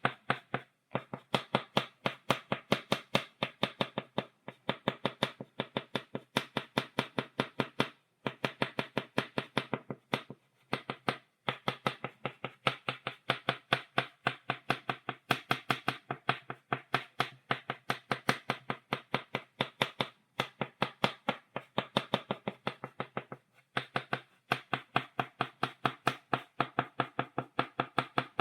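Chalk tapping against a blackboard in quick runs of sharp dots, several taps a second, with a few brief pauses between runs.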